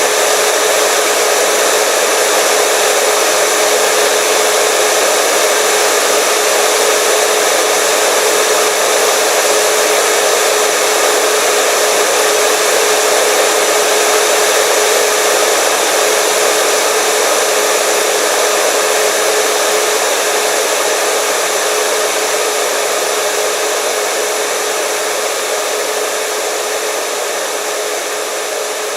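Hair dryer running steadily: rushing air with a constant motor-fan whine, easing slightly in level near the end.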